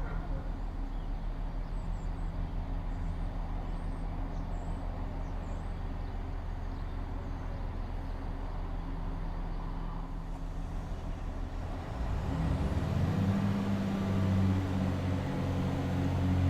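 Diesel train engine running steadily, with a low, even hum that grows louder and fuller about twelve seconds in. Faint bird chirps early on.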